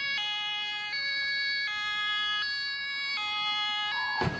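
Electronic two-tone emergency vehicle siren alternating high and low about every three-quarters of a second. It is cut off abruptly by a loud click near the end.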